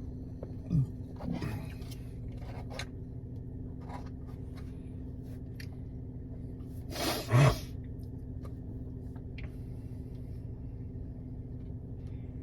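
Scattered light scraping and clicking of takeaway food packaging being handled, over a steady low hum. A short louder rustle comes about seven seconds in.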